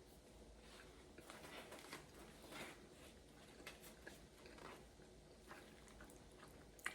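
Faint chewing: a person quietly eating a mouthful of food, with soft irregular crunches and mouth sounds and a small click near the end.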